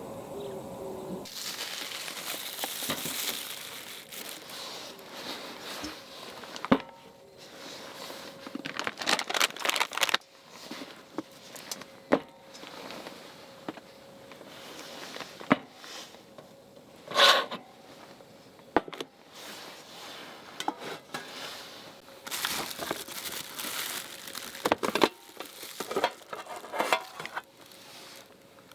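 Crinkly wrapping being handled and crumpled by hand, in irregular rustling bursts with scattered sharp clicks and knocks. A steady hum stops about a second in.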